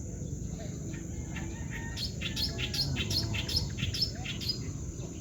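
A bird chirping in a quick run of short notes, about four a second, starting about two seconds in and lasting some two and a half seconds, over a steady high insect drone.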